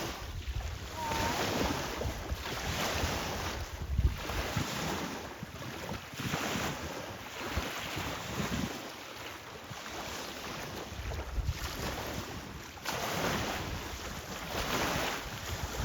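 Wind gusting against the microphone, with a broad rushing noise that swells and fades every few seconds.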